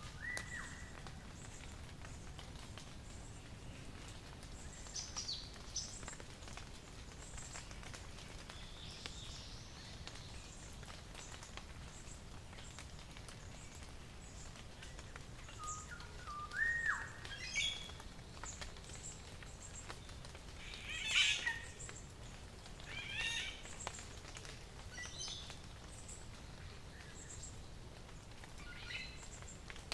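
Wild birds calling: a clear whistled note sweeping upward twice, at the start and about seventeen seconds in, among scattered high chirps and short bursts of twittering, the loudest about twenty-one seconds in.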